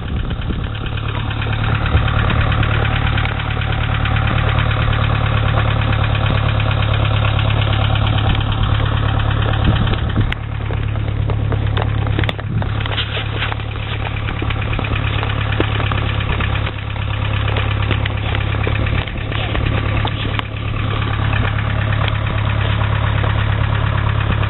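Land Rover Series 4x4's engine running steadily at low revs, a constant low drone, with a hiss over it.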